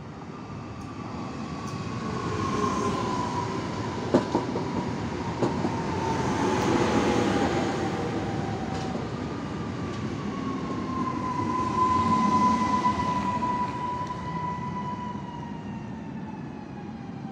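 Electric multiple-unit train running past a platform: a rumbling wheel noise that swells twice, with a thin electric motor whine that slowly falls in pitch and a few sharp clicks of wheels over rail joints about four to five seconds in.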